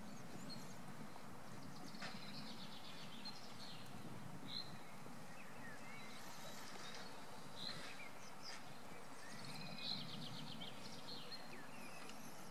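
Songbirds calling: short high chirps every couple of seconds and two brief rapid trills, over a steady outdoor hiss with a faint low rumble that comes and goes.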